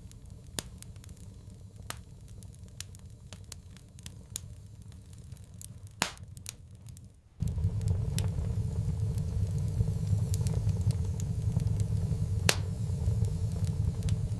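Wood fire in a fireplace crackling, with scattered sharp pops and one louder pop about six seconds in. About halfway through, a low steady roar of the flames comes in abruptly and the crackling carries on over it.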